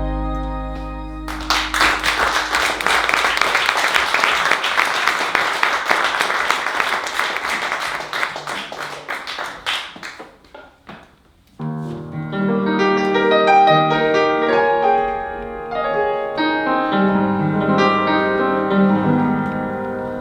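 A song ends on a held chord, followed by about eight seconds of audience applause. After a short near-quiet gap, a piano starts playing a gentle run of single notes and chords.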